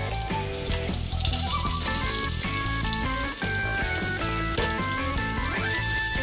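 Garlic, onion and raw chicken pieces sizzling in hot oil in a wok, over background music of held notes.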